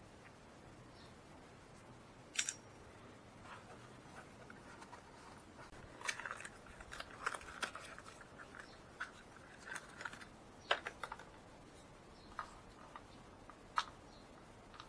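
Irregular light clicks and clinks, like small hard objects or tools being handled, in a quiet space. They are busiest in the middle, with sharper single clicks about two and a half seconds in, near eleven seconds and near fourteen seconds.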